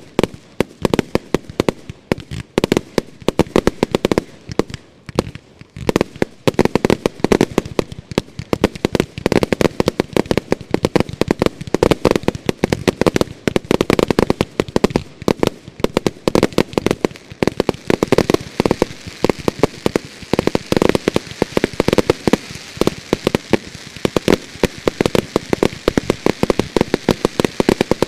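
Category F2 consumer fireworks fired as a finale barrage: a dense, unbroken run of shots and bursts, many bangs a second. From about two-thirds of the way through, a crackling hiss builds up under the bangs.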